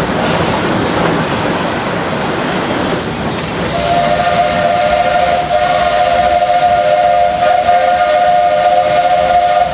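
Steam locomotive's whistle blowing one long, steady, chorded blast of about six seconds, starting a few seconds in and cutting off suddenly near the end, over the hiss and running noise of the steam train.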